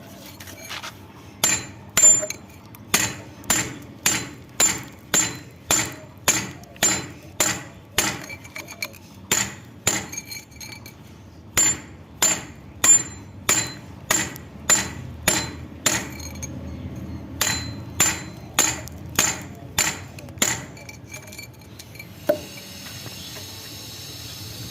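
A hammer striking repeatedly, about two blows a second, each blow with a short metallic ring. The hammering stops near the end, followed by one softer knock.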